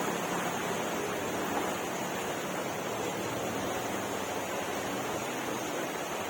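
Flowing water rushing steadily, an even noise without breaks.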